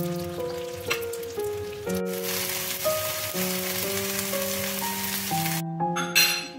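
Rice-paper-wrapped chicken rolls sizzling as they fry in oil in a pan, over background music. The sizzling cuts off suddenly about five and a half seconds in, leaving the music.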